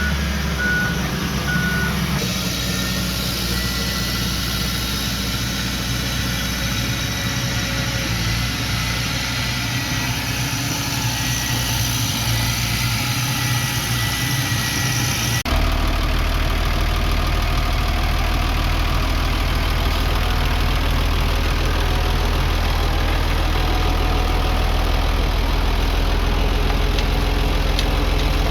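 Engine of heavy earthmoving machinery running steadily. About fifteen seconds in, the sound changes abruptly to a louder, deeper engine note.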